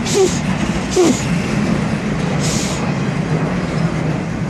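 Freight train rolling past: a steady low rumble of the cars, with two sharp clanks near the start and a short hiss in the middle.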